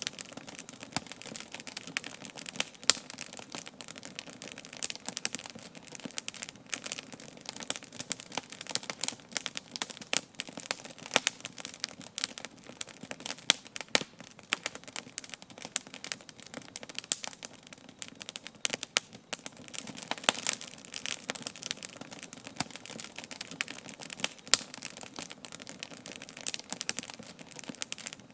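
Campfire crackling, with dense, irregular sharp snaps and pops over a steady hiss.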